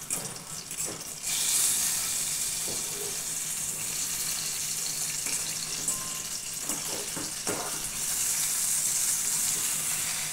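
Tomatoes and garlic cloves sizzling in hot oil in a stainless steel pan while they are turned over with a fork. The hiss grows louder about a second in as the tomatoes are flipped, and the fork clicks against the pan a few times.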